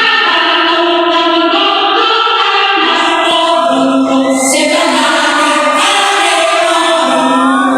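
Choir singing, holding long notes that change pitch every second or so.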